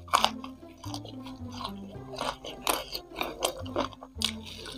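Close-up biting and chewing of crispy fried chicken feet coated in Samyang hot sauce: many short, sharp mouth clicks throughout. Background music with a steady, stepping bass line plays underneath.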